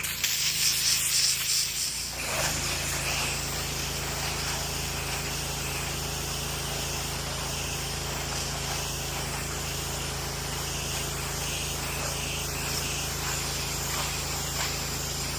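Pressure washer at work: a sharp, fluttering hiss of spray for about two seconds, then a steady machine hum under a constant hiss of spray, as soap is applied to the house.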